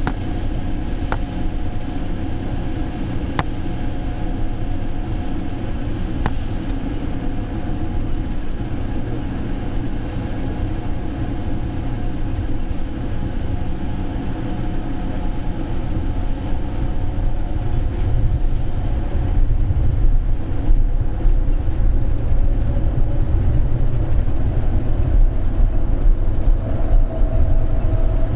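Rubber-tyred airport people-mover train running at speed, a steady low rumble with a few sharp clicks in the first seven seconds. The rumble grows louder through the second half, and a steady tone joins near the end.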